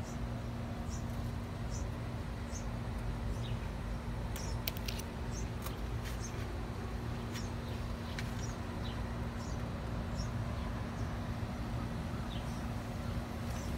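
A small bird chirping over and over, short high chirps about once a second, above a steady low hum. A few sharp clicks come about five seconds in.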